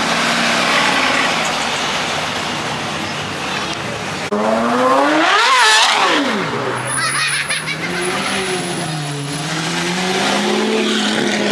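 Performance car engine accelerating hard about four seconds in, its pitch climbing for under two seconds and then dropping sharply as the revs fall. Around it, the steady drone of other car engines moving slowly.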